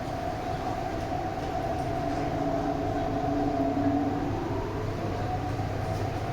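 MTR East Rail Line R-train electric multiple unit running, heard from on board: a steady rumble of the cars under way, with a constant motor whine held throughout.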